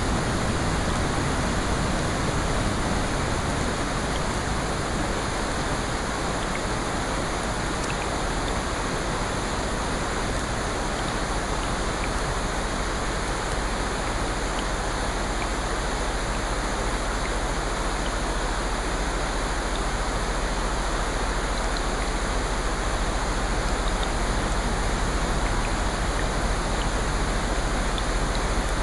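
Steady rain: an even, unbroken hiss with a few faint drop ticks.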